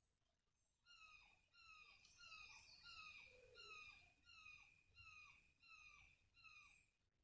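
A bird calling a steady series of about a dozen short notes, each falling in pitch, roughly two a second.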